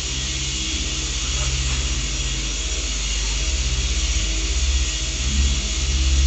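Electric car polisher running steadily while it buffs paint, a motor hum with a hiss, its level swelling a little now and then.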